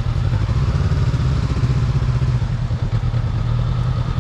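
Motorcycle engine running at low, steady revs, its firing a fast, even pulse.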